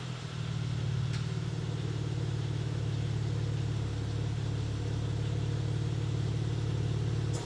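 BMW M4 Competition Convertible (G83) with its twin-turbo straight-six on the stock exhaust, idling steadily in an underground car park. The idle stops abruptly near the end.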